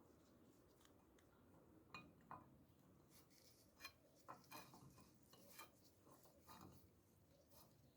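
Near silence broken by faint, irregular clicks and light taps, starting about two seconds in.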